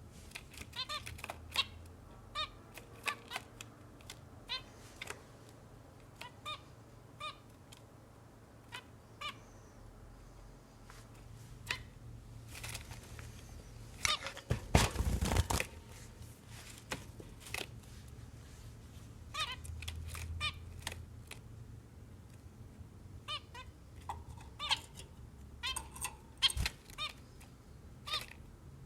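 Cage birds giving short, pitched chirping calls in scattered clusters, with one loud rustling burst about halfway through.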